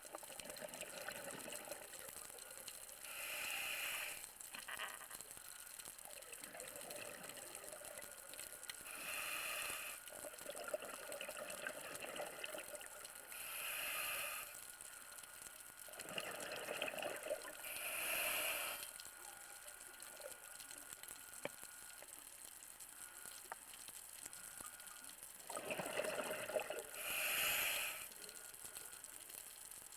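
Scuba regulator breathing underwater: a faint steady hiss broken by a rush of exhaled bubbles every four to five seconds.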